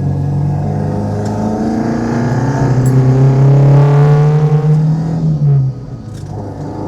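A 1968 Alfa Romeo GT Junior's four-cylinder engine pulling under acceleration, its pitch rising steadily for a few seconds, then dropping off suddenly near the end as the driver lifts off or changes gear.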